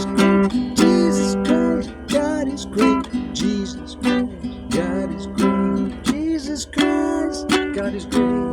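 Strummed acoustic guitar playing the closing chords of a song, dying away near the end.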